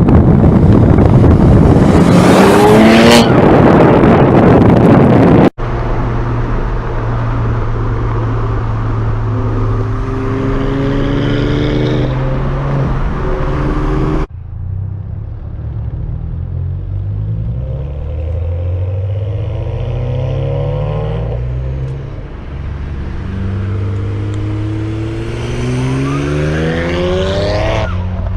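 BMW 335i's N54 twin-turbo inline-six, running through resonators, catless downpipes and 4-inch tips, accelerating hard with the engine note rising again and again through the gears. The sound comes as three separate clips that cut abruptly about five seconds in and again about fourteen seconds in; the first is the loudest and most rushing.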